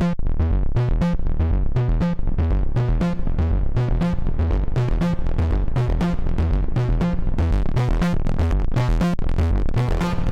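Waldorf Pulse 2 analog monosynth playing a sequenced bass line of short, plucked notes, about five or six a second, its pitch moving in a repeating pattern.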